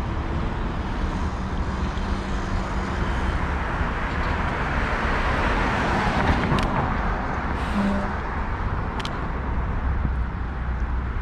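City street traffic with a steady low rumble, as a vehicle passes close by, swelling to its loudest about six seconds in and fading away. Two short sharp clicks follow the pass.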